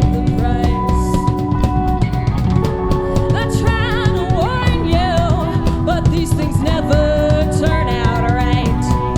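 Live rock band playing, with a full drum kit of bass drum and snare keeping the beat under held chords and a wavering melodic line.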